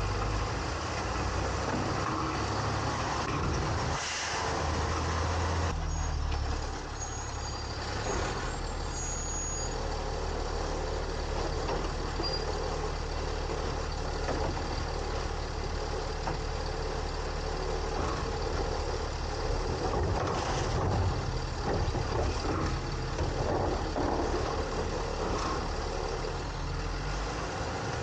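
Side-loader garbage truck running, heard from inside its hopper: a steady diesel engine hum under mechanical rattling, with a few short louder bursts of noise.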